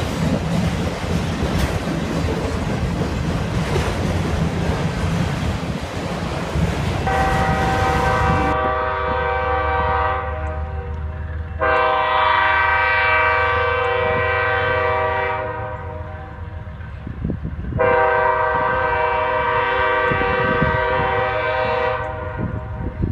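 Freight train rolling with wheels clattering on the rails and the diesel locomotives running, then a multi-chime locomotive air horn sounds three long blasts, the first starting about seven seconds in.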